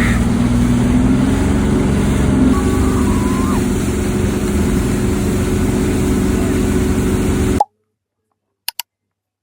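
A vehicle engine running steadily under heavy noise, cutting off abruptly about three quarters of the way through. Silence follows, broken by two brief clicks.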